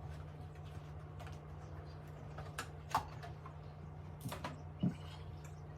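A few scattered light clicks and knocks of kitchen utensils over a steady low hum.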